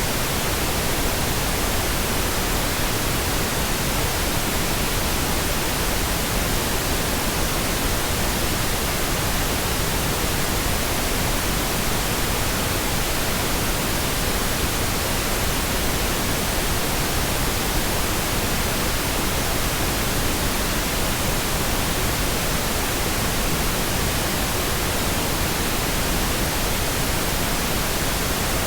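Steady synthetic pink noise: an even, unchanging hiss spread across the whole range from deep to high, with no tones or events.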